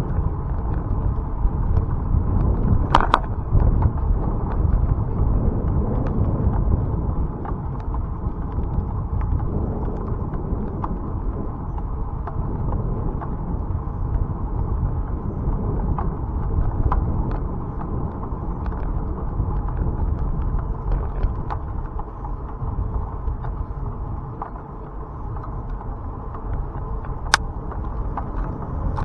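Bicycle riding along a country road, heard as a steady low rumble of tyres and wind on the camera microphone, with a couple of sharp clicks or knocks, one about three seconds in and one near the end.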